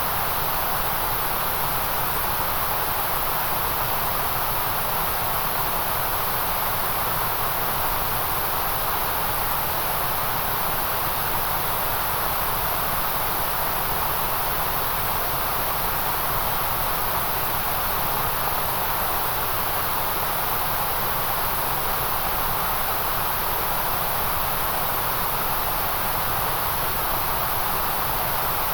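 Steady generated white noise: an even, unchanging hiss, brightest high up with a second band of energy in the middle.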